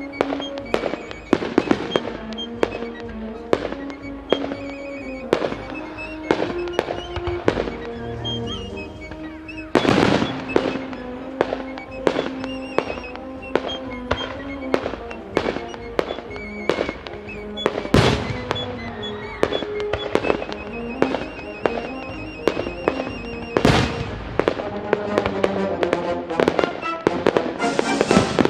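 Aerial fireworks going off in quick succession: a steady stream of sharp bangs, with bigger booms about ten, eighteen and twenty-four seconds in. Music with held notes plays underneath throughout.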